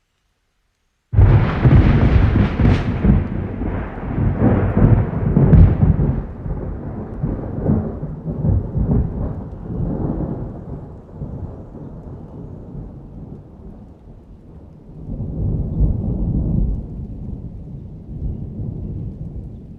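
Thunder that starts suddenly with a loud crack about a second in, then rolls and rumbles as it slowly fades. A second, softer rumble swells up near the end.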